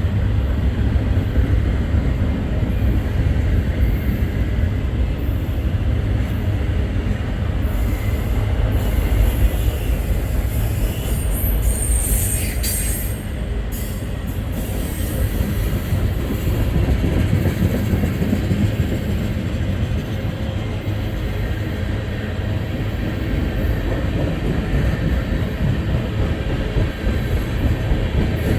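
Freight train passing close by: a steady loud rumble of locomotive and rolling cars on the rails, with a brief high-pitched wheel squeal about halfway through.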